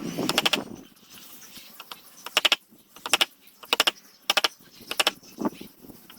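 Short strokes of a hand tool on wood: a longer rasping burst, then brief bursts of rapid clicks roughly every two-thirds of a second.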